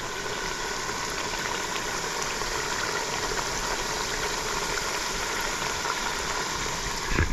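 Chunky hand-cut potato fries deep frying in hot oil on a propane camp stove, a steady bubbling sizzle with faint scattered pops.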